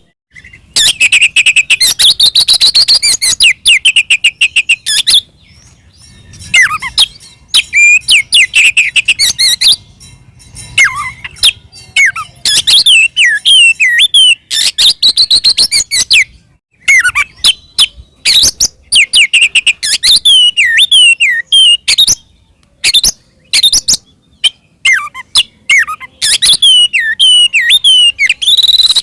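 Oriental magpie-robin (kacer) singing loudly in its continuous fighting song: long bursts of rapid, varied whistles and chatters, broken by short pauses of about a second. This is the aggressive song used to goad other magpie-robins into answering.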